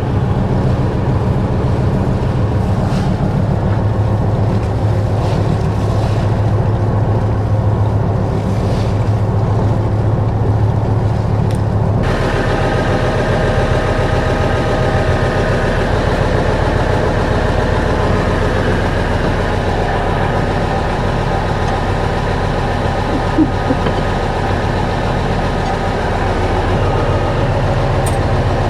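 Diesel engine running steadily; about twelve seconds in the sound cuts abruptly to another steady engine hum with higher tones in it.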